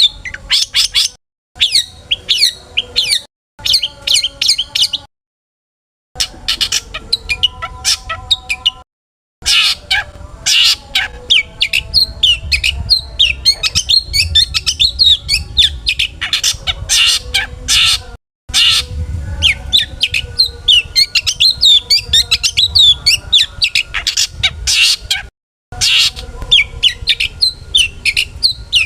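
Long-tailed shrike (cendet) singing a fast, varied medley of chirps, trills and harsh squawking notes, a song full of mimicked calls. The song stops dead for a moment several times, as if cut and spliced.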